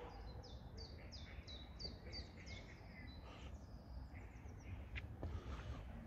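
A songbird singing a fast series of about a dozen short high notes, each dropping in pitch, for the first four seconds or so, faint over a low rumble.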